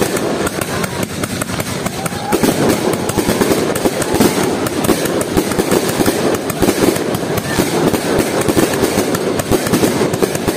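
Many fireworks and firecrackers going off at once in a dense, unbroken crackle of rapid bangs. Individual sharper reports stand out now and then.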